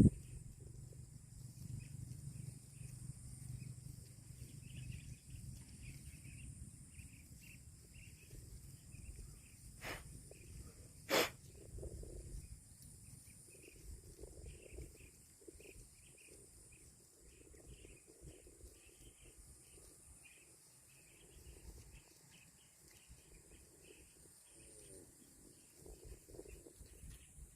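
Quiet rural outdoor ambience: faint, rapid chirping and a steady high hiss, with soft rustling. A sharp click comes about eleven seconds in, after a fainter one a second earlier.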